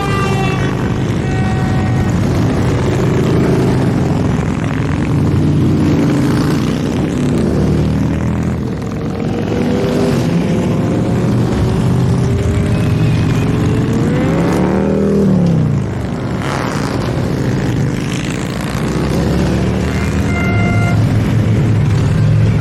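A stream of motorcycles riding past in a parade, many engines running at once. About fourteen seconds in, one engine's pitch rises and falls back, and short steady horn-like tones sound near the start and again near the end.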